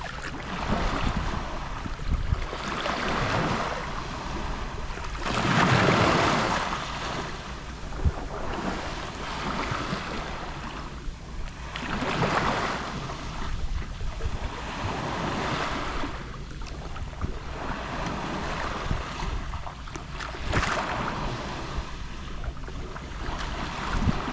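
Gentle Mediterranean waves lapping on the shore, each swell of wash rising and falling every few seconds, the biggest about six seconds in. Wind rumbles on the microphone throughout.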